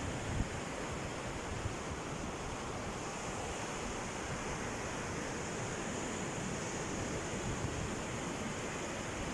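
Sea waves washing onto the shore in a steady wash of surf, with some wind on the microphone.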